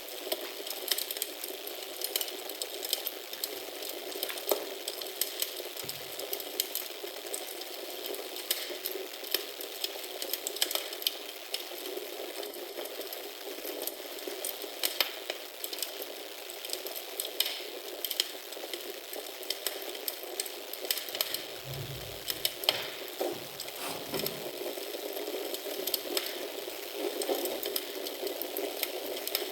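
Wood fire burning in a fireplace: a steady hiss with frequent irregular crackles and sharp pops. A few soft low thuds come about three-quarters of the way through.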